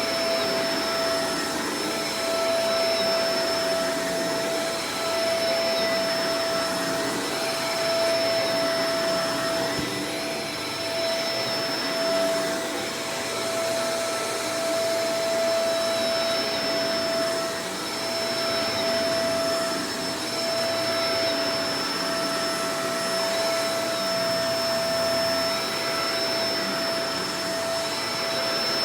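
Shark Professional Powered Lift-Away DLX (NV586) upright vacuum cleaner running steadily, a constant motor whine over the rush of airflow, with only small swells in level.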